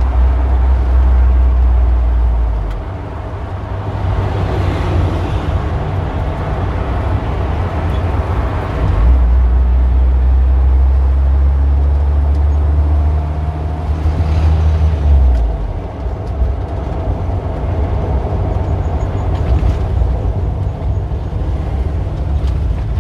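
Street traffic: cars passing in a steady wash of noise, swelling as vehicles go by. A deep, steady engine hum stops about three seconds in, then comes back from about nine to fifteen seconds.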